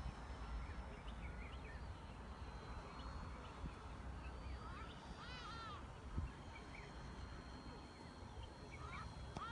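Wild birds calling over a low rumble: scattered small chirps, and about five seconds in a short run of arched, repeated calls, with more starting again near the end.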